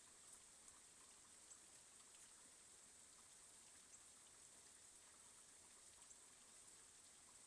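Faint, steady rain with scattered drops ticking.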